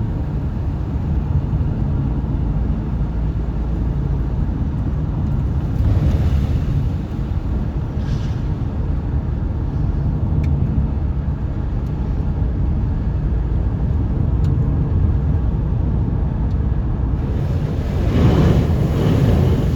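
Car driving on a road, heard from inside the cabin: a steady low engine and tyre rumble, with a louder rush of noise near the end.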